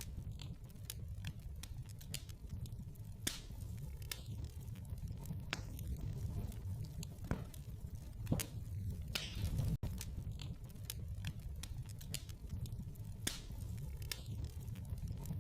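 Wood fire crackling in a fireplace: irregular snaps and pops over a low, steady rumble of the burning logs.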